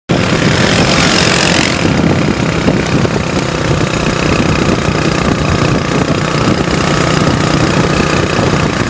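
Motorcycle engine running steadily, with a rush of hiss over it in the first two seconds.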